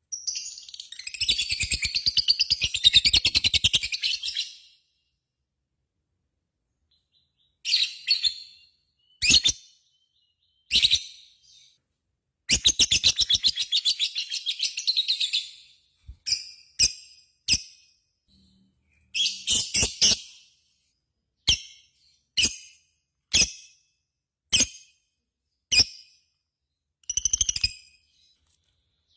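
Lovebird giving its long, rapid chattering trill ("ngekek"), two runs of about three to four seconds at the start and near the middle, with shorter bursts and single sharp calls between, separated by silent gaps.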